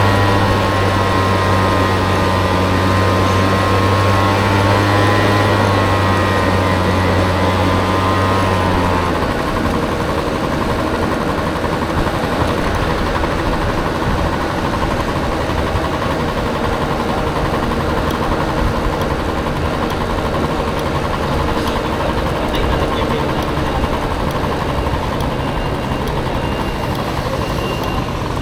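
Street traffic with a vehicle engine idling steadily, which stops about nine seconds in; after that, general road traffic noise, with faint beeping near the end.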